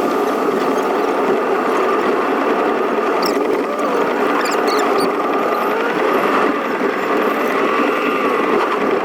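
Steady rushing noise of a car driving through rain on a wet road, with a few small clicks scattered through it.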